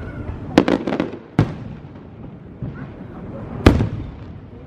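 Aerial fireworks shells bursting. A quick cluster of bangs comes about half a second to a second in, another bang follows near a second and a half, and the loudest single bang lands a little past three and a half seconds.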